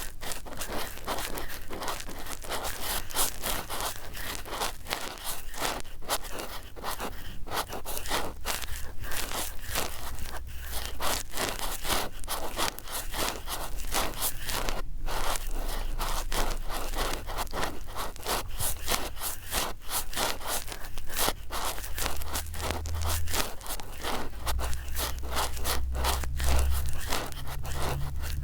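Cotton swabs rubbed and scratched rapidly against a microphone, a dense, continuous run of short scratchy strokes. A low rumble comes in near the end.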